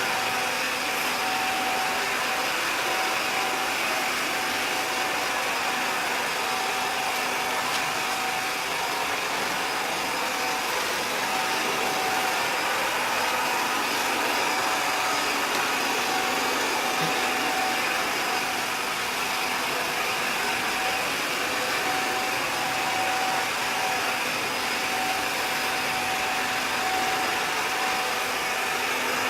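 Robot vacuum cleaner running: a steady whir of its suction fan and brushes, with a thin whine that cuts in and out every few seconds.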